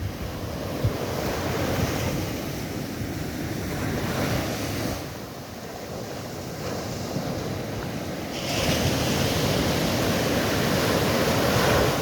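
Sea waves washing in and receding, swelling louder about two-thirds of the way through, with wind rumbling on the microphone.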